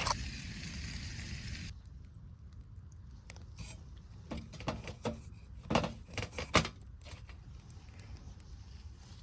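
Food sizzling in a pan cuts off about two seconds in. Then come a handful of sharp clinks and knocks of metal camp cookware and utensils being handled, the loudest near the middle.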